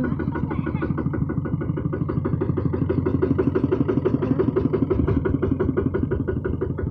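Kubota RT155 single-cylinder diesel engine on a two-wheel hand tractor running with a fast, even chug of about nine beats a second, swelling slightly in the middle.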